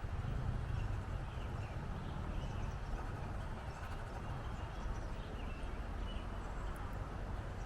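Wind blowing across the microphone, a steady low rush, with faint short bird chirps here and there.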